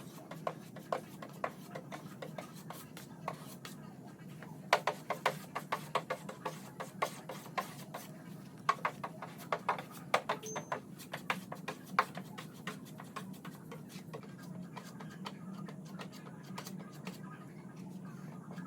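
Irregular sharp clicks and taps of hand tools on car parts over a steady low hum, busiest in the middle and thinning out towards the end.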